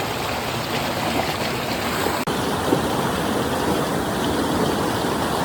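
Steady rushing of flowing stream water, an even hiss and babble with no pauses; its tone shifts slightly a little over two seconds in.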